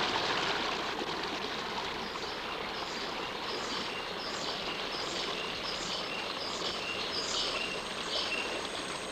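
Flowing river water in a steady rush, with a short high call repeated about every half second from about two seconds in until near the end.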